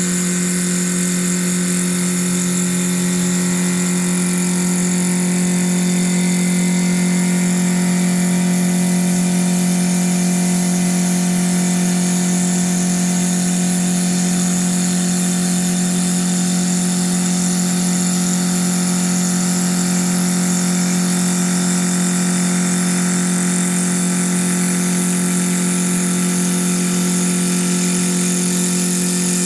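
CNC wood lathe running with a steady, unchanging hum and a high hiss above it.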